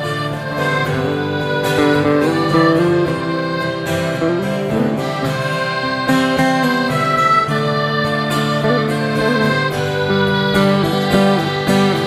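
Live band playing an instrumental break in a slow country-folk song: strummed guitar under held melody notes and a steady bass.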